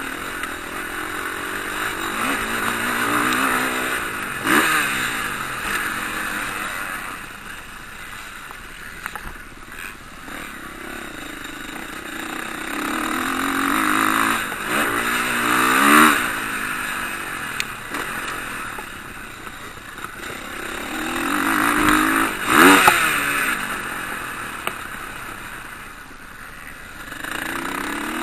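Motocross bikes racing past, engines revving up and down as riders work the throttle and shift. The sound swells and fades as bikes come and go, with three loudest passes.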